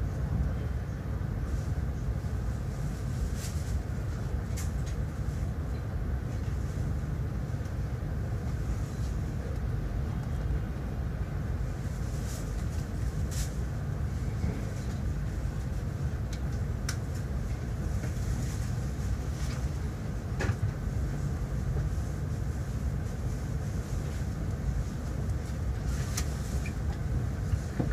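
Cabin noise of a CRH high-speed train rolling slowly into a station: a steady low rumble, with a few sharp clicks scattered through.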